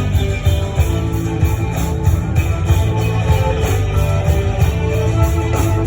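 Live folk-rock band playing an instrumental passage between verses: strummed guitars over bass and a steady drum beat.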